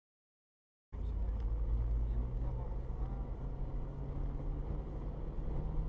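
Silence for about the first second, then the steady low rumble of a car driving: engine and road noise picked up by a dashcam inside the car.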